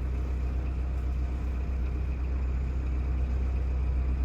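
Narrowboat's diesel engine running steadily under way, a constant low rumble.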